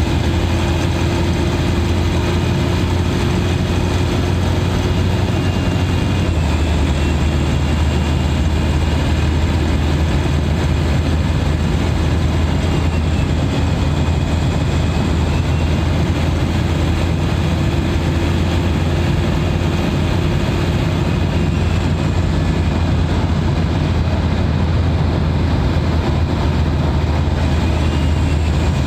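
Turbodiesel engine heard from a microphone inside its engine bay, running at a steady highway cruise with a constant low drone. Its note shifts slightly about six seconds in.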